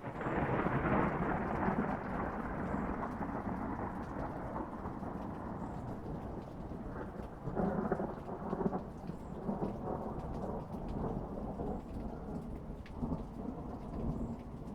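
Rolling thunder over steady rain. The rumble is loudest at the start, comes back in a second run of rumbles about halfway through, and eases off near the end.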